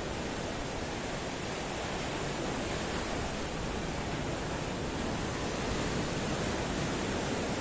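Ocean surf: a steady, even wash of breaking waves that swells slightly toward the end.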